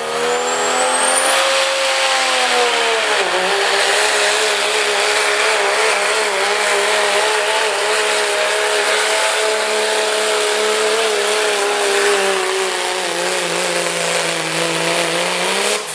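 Cummins diesel engine in a pulling pickup truck running at high revs under full load as it drags the sled, its pitch dipping once about three seconds in and then holding fairly steady over a heavy hiss.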